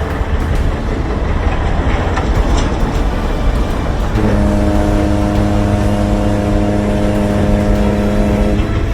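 Vehicle engine rumble. About four seconds in, a steady horn sounds and holds for about four seconds, then stops.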